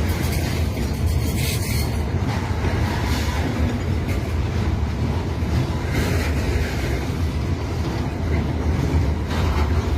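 Diesel freight train rolling past with a steady low rumble, with scattered clacks as the wagon wheels pass over the rail joints.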